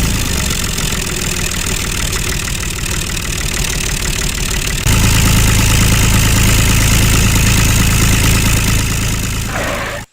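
Engine running steadily with an even low hum. It gets louder about five seconds in and cuts off abruptly near the end.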